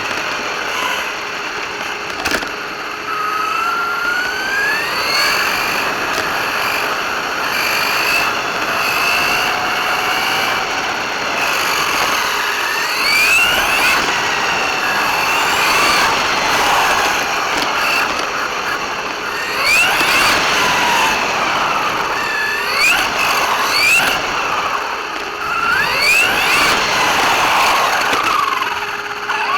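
RC car's motor whining and rising in pitch again and again as it accelerates, over a steady rough hiss.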